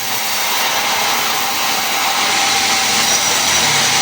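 A woodworking power tool running steadily, a loud even whirring hiss with no breaks.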